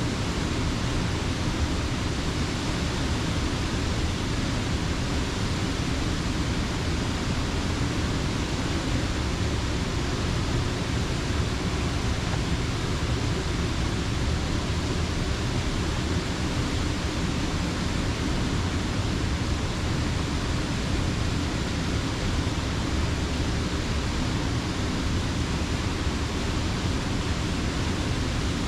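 Creek water pouring steadily over a mill dam: a continuous, even rush with a heavy low rumble.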